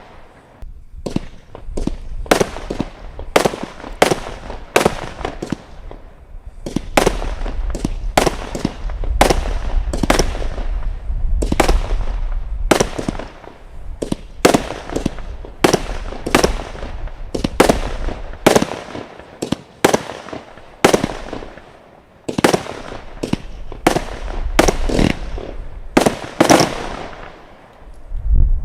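Consumer firework cakes going off: a steady string of sharp bangs, about one a second and sometimes closer together, each with a short echoing tail, over a low rumble.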